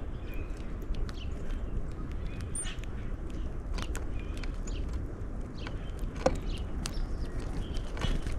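Red-winged blackbirds and common grackles at a bird feeder: scattered short chips and calls, with sharp clicks and taps from the feeder, over a steady low rumble.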